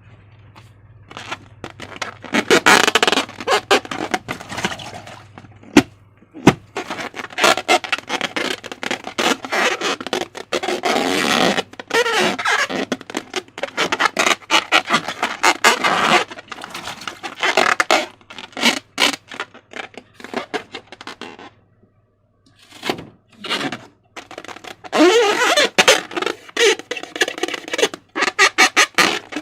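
Slime being squeezed and worked by hand, giving a dense run of wet crackling, squelching and small popping sounds. It stops briefly twice, about six seconds in and again about three-quarters of the way through.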